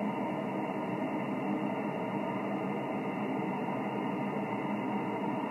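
Static of an HF single-sideband receiver tuned to an empty 20-metre frequency: a steady hiss limited to the narrow voice band, with no station transmitting.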